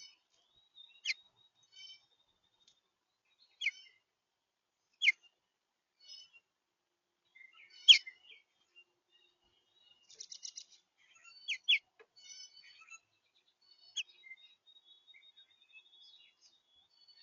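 Small songbirds calling: about seven sharp, downslurred chip notes spaced through, the loudest about eight seconds in, with softer twittering between and a short buzzy trill about ten seconds in.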